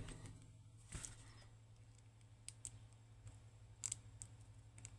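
A few faint, sharp metal clicks at irregular intervals: small tools working at a stripped screw in a lock, which does not come loose.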